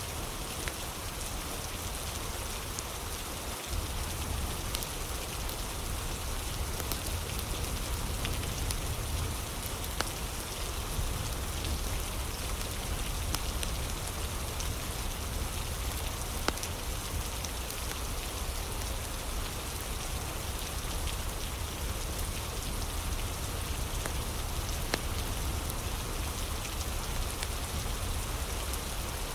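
Steady rain ambience with a low rumble underneath, dotted with scattered sharp pops and crackles from a wood fire.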